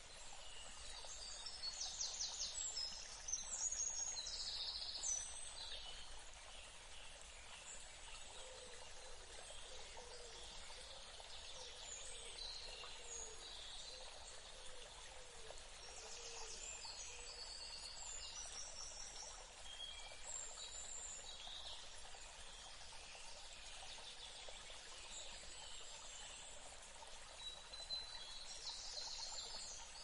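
Small birds chirping now and then in short, high calls, with clusters near the start and the end, over a faint steady hiss.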